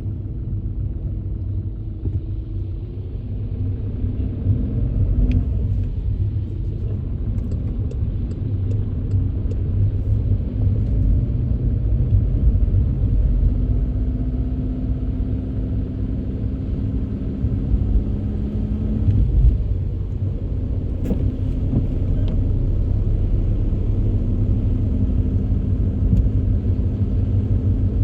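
Car driving on rain-soaked roads: a deep, steady rumble of engine and tyres, with an engine hum that shifts in pitch and drops out about two-thirds of the way through.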